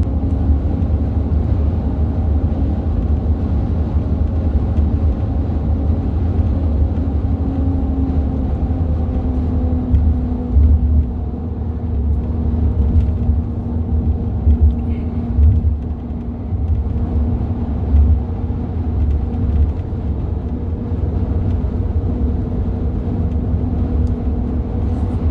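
Cabin drone of a 2016 Ford F-150 EcoBoost pickup on the road: a steady low rumble of engine and road noise with a steady hum running through it.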